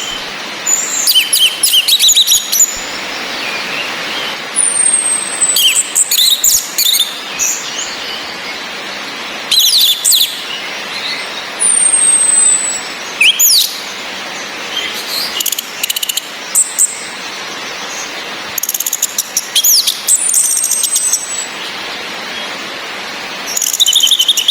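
Orange-headed thrushes calling: a thin, high whistle that falls in pitch recurs about every seven seconds among short bursts of rapid chirping song, over a steady hiss of rain.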